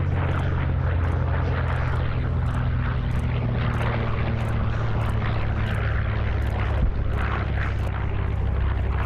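A B-25 Mitchell bomber with its twin radial engines and a P-51 Mustang with its V12 fly past together, their piston engines running with a loud, steady low hum. The pitch drops slightly about a second in.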